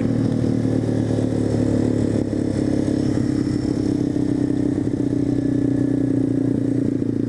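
Single-cylinder four-stroke engine of an SSR125TR pit bike running at a steady, nearly even pitch while being ridden.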